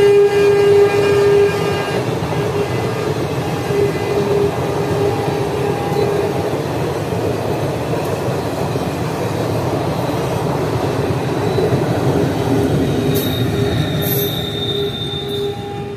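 Indian Railways passenger train's coaches rolling past and receding, a steady rumble of wheels on the rails that slowly fades. The tail of a locomotive horn blast sounds in the first second or so, and a thin high squeal comes near the end as the last coach passes.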